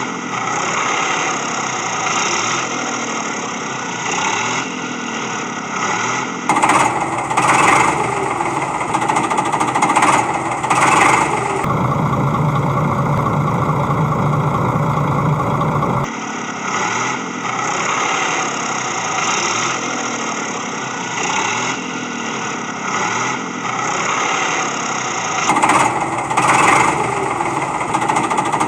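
Engine sound of a tractor, looped and switching abruptly between sections: a steady run, a stretch of rhythmic revving surges, a deep steady low hum for about four seconds, then the steady run again and more surges near the end.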